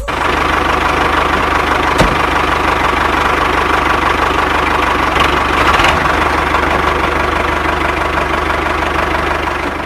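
Tractor engine idling steadily, running with rapid even pulses; a single short click about two seconds in.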